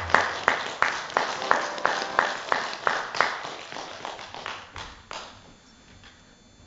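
A small audience applauding after a song, with loud claps standing out about three times a second; the applause dies away about five seconds in.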